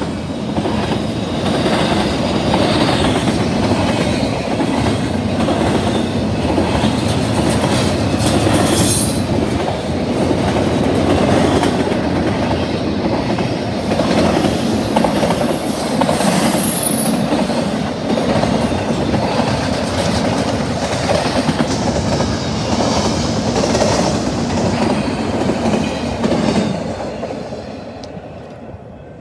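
Double-stack container train's well cars rolling past at close range: a steady rumble of steel wheels on rail with clickety-clack over the joints and two brief high wheel squeals. The sound fades near the end as the last cars pass and move away.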